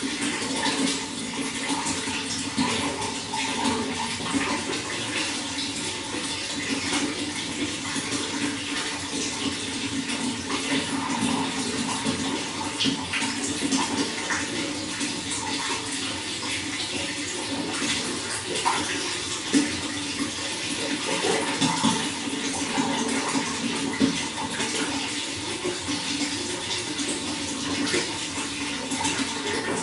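Running water flowing and splashing steadily, with constant gurgling.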